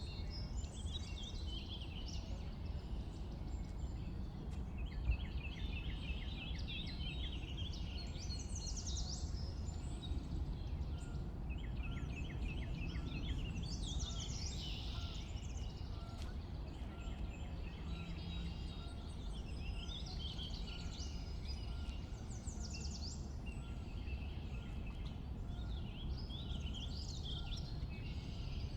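Songbirds singing, a run of separate phrases of quick whistles and fast trills. A steady low rumble of background noise lies underneath.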